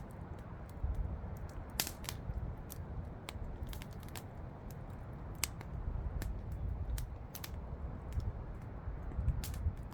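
Campfire crackling: wood burning with irregular sharp pops and snaps over a steady low rumble.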